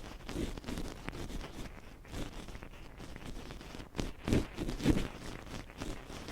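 Ear pick scraping and scratching close against a microphone, as in ear-cleaning ASMR: irregular rustling scrapes with small clicks. Two heavier thumps come a little after four seconds and again near five seconds in.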